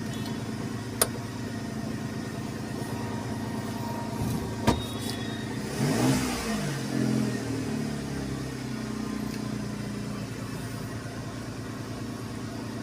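Renault Kwid's three-cylinder petrol engine idling steadily, now that the intake manifold vacuum leak that made its idle hunt and stall has been sealed, with one brief rev about six seconds in. Two sharp clicks come at about one second and near five seconds.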